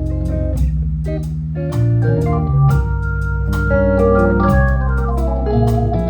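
Live instrumental music led by an organ playing held, changing chords, with drum and cymbal hits throughout.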